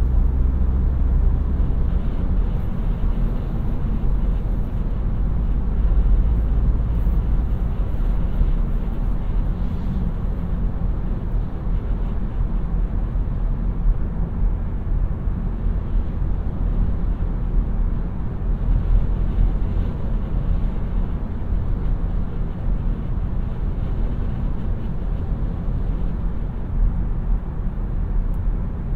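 A 2017 Seat Arona 1.0 TSI 115 hp being driven: the steady low rumble of its turbocharged three-cylinder petrol engine mixed with tyre and road noise, with no marked revving.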